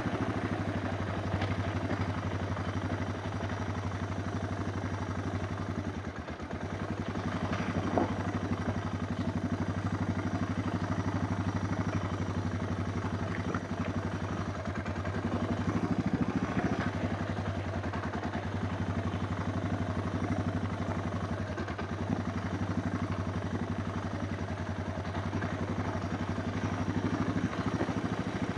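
Suzuki DR650's single-cylinder four-stroke engine running at a steady, fairly constant pace, with a few sharp clicks and rattles over it.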